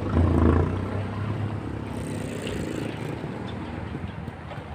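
Motorcycle engine running, loudest in the first half second and then settling to a lower, steady hum.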